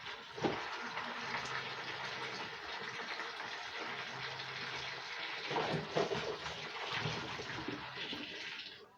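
Water running steadily from a kitchen tap as tomatoes are rinsed under it, with some splashing and handling sounds, until the tap is shut off near the end.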